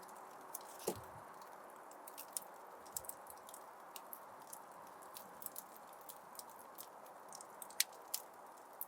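Fire crackling in a fireplace: irregular sharp pops and snaps over a steady soft hiss, with louder pops about a second in and near the end.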